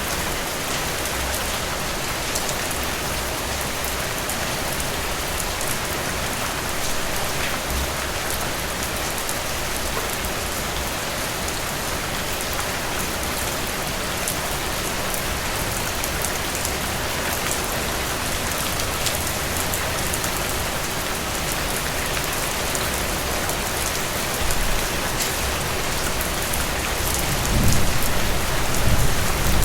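Steady rain falling, an even hiss with a dense patter of drops. A low rumble swells near the end.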